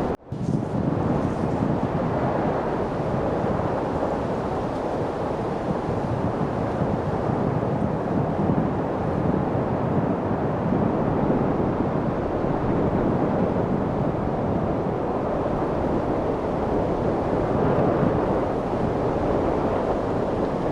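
Steady wind noise, a continuous rushing without gusts or breaks, cutting out for a split second right at the start.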